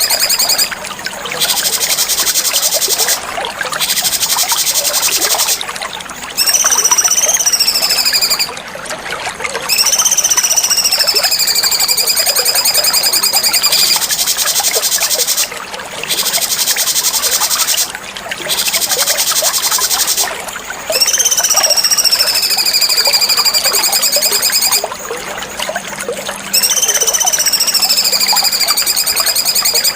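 Cucak cungkok songbird singing a repeated phrase: a clear whistle that rises and falls, alternating with a rapid buzzy trill, with short pauses between phrases.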